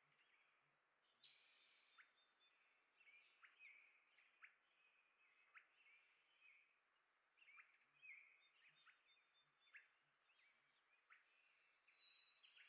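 Faint chirping of small songbirds: many short calls, several a second, with a few brief trills.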